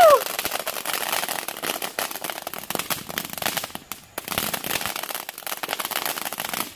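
Consumer ground fireworks crackling and popping in a dense rapid stream, easing off briefly about four seconds in, then picking up again.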